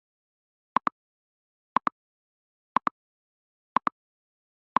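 A ticking sound effect: a pair of short, sharp clicks repeating steadily once a second, like a clock tick used as a timer.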